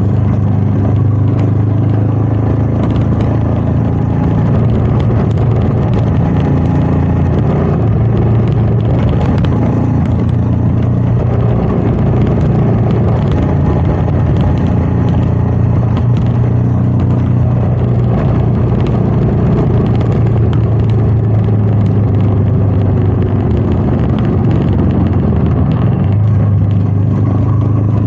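Royal Enfield Meteor 350's single-cylinder engine running steadily on the move, with wind rush over it. The engine note shifts slightly near the end.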